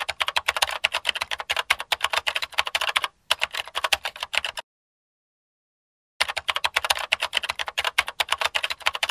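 Rapid typing, fast key clicks several a second, in a run of about four and a half seconds with a brief break, then a stretch of dead silence, then typing again.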